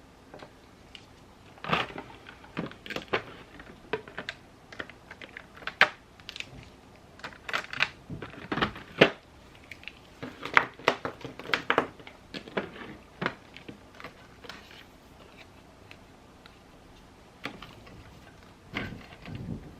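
Irregular taps, clicks and light rustles of journaling supplies (pens, paper and the like) being handled on a desk, coming in clusters with short pauses between.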